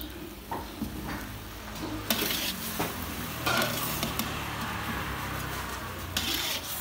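Shrimp frying in hot oil in a steel wok, sizzling steadily, with a long-handled metal spatula scraping and clicking against the wok as they are stirred. The sizzle flares up into louder hissing surges a few times, about two seconds in, again a second and a half later and near the end.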